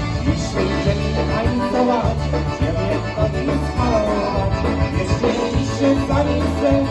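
Live polka band playing an instrumental passage: accordion melody over a steady, bouncing bass beat.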